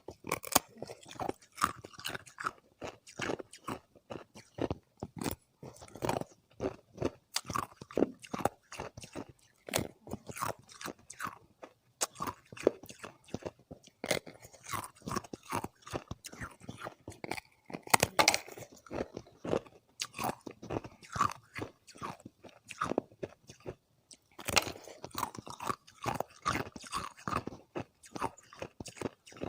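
Thin disks of ice being bitten and chewed close to the microphone: a steady run of sharp, irregular crunches and crackles, with brief pauses between mouthfuls and a few louder bites.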